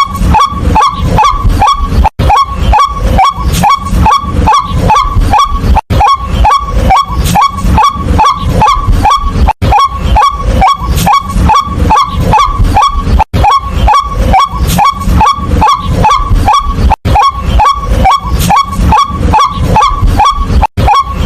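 White-breasted waterhen calling: a loud, monotonous string of harsh repeated notes, about three a second, with a brief break every three to four seconds.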